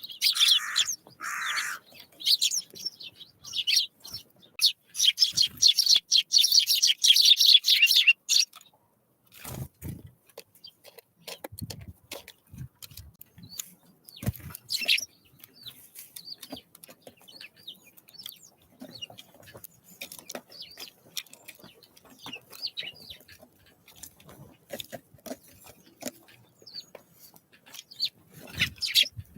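Small wild songbirds calling and chirping, with a fast run of loud high notes in the first eight seconds, then sparser, fainter chirps and a few knocks.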